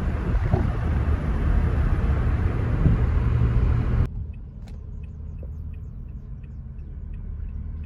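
Steady vehicle rumble, a loud low noise, which cuts off abruptly about four seconds in to a much quieter low hum with a few faint ticks.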